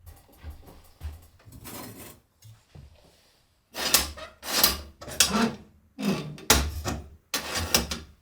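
Household tidying sounds: light knocks and handling noise at first, then a run of loud knocks and clatter over the last four seconds.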